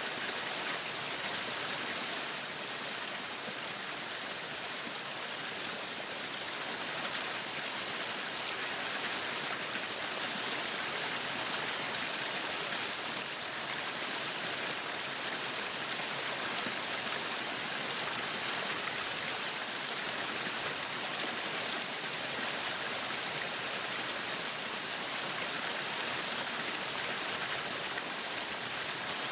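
Meat sizzling steadily on a yakiniku grill: a continuous, even crackling hiss.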